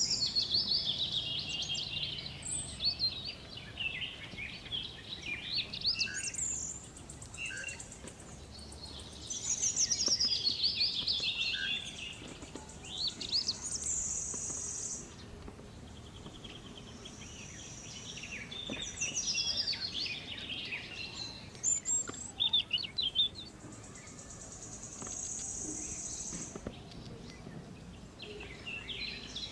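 Wild birds chirping and calling in a busy overlapping chorus of short, quick notes, with now and then a high, steady buzzing note held for a second or two.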